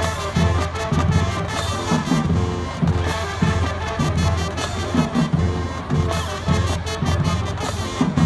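High school marching band playing a loud, rhythmic number: brass section over steady, regularly pulsed bass drum hits.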